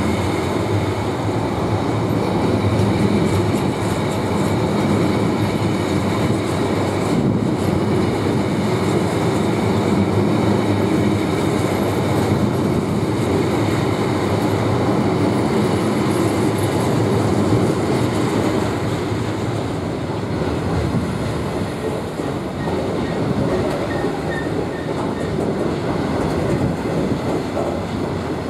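Loaded stone hopper wagons of a freight train rolling past, a steady rumble and clatter of steel wheels on the rails.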